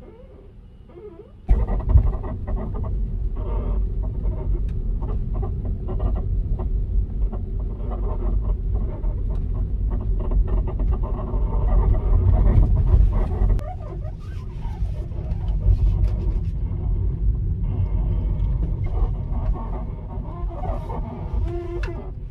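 Tesla Model 3's right front lower control arm (wishbone) making a creaking, squeaking 'ji-guai' noise, with short clicks and wavering squeals over a low rumble that comes in loudly about a second and a half in. It is the sign of a worn-out control arm that needs replacing.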